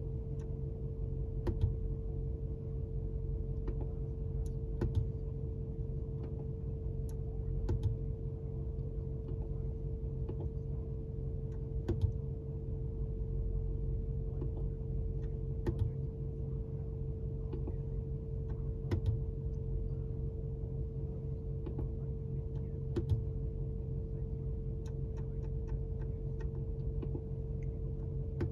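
Steady low rumble with a constant hum inside the cabin of a Mercedes-Benz G63 AMG, with scattered light clicks from the infotainment controls as the menus are stepped through.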